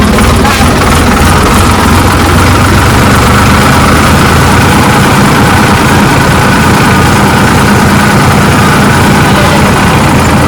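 Sonalika 47 RX tractor's diesel engine running steadily and loudly.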